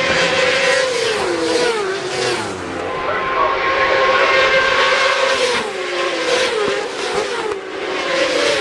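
Superbike racing motorcycles running at high revs past the trackside, their engine notes falling in pitch several times as they go by.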